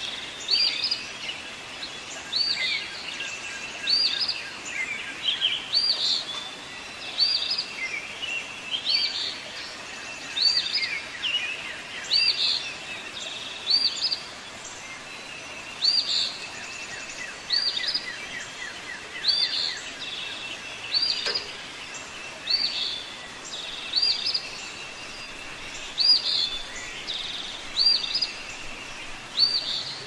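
Songbirds singing and calling. One bird repeats a short, high chirp about once a second, while others add quicker trills and calls beneath it.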